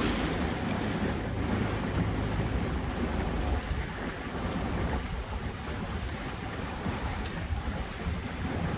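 Boat moving through the water: a steady wash of water with wind buffeting the microphone and a low rumble underneath.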